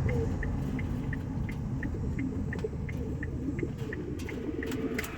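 A car's engine and road rumble heard from inside the cabin while driving slowly, with a light, even ticking about three times a second.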